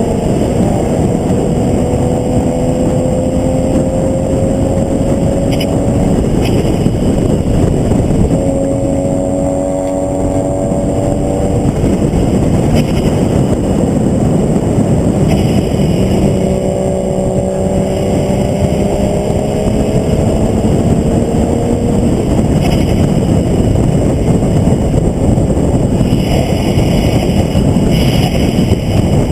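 Onboard sound of a vehicle lapping a road course at speed: the engine note climbs three times, about 0–6 s, 8–12 s and 16–22 s, breaking off between the climbs, over a loud constant rush of wind and road noise.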